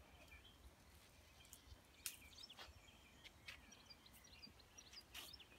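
Faint, scattered bird chirps over quiet garden ambience with a low steady rumble, and a few brief clicks.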